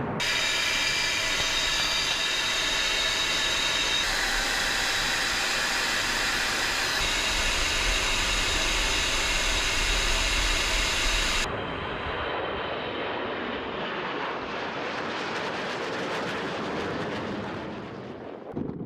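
Su-30 fighter jet engines running loud with a high-pitched whine over a steady rush, broken by abrupt cuts. About two thirds of the way through it switches to a quieter jet sound that swells, then fades near the end.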